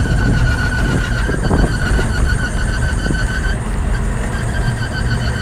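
Ambulance on the move making a steady high-pitched squeal with a fast flutter, over the low rumble of the vehicle driving; the squeal drops out briefly about three and a half seconds in.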